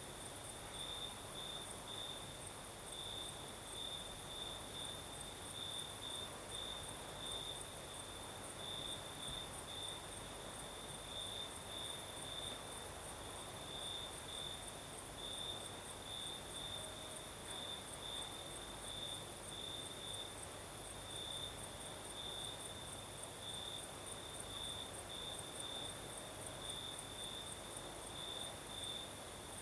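Crickets chirping steadily at night: one even, pulsing chirp with a higher, thinner trill running above it, over a faint hiss of breeze.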